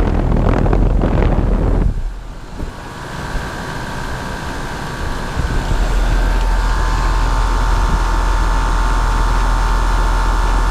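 York central air conditioner running outdoors: a loud rushing of air buffeting the microphone drops off sharply about two seconds in, leaving a steady hum with a few faint high steady tones from the unit's fan and compressor.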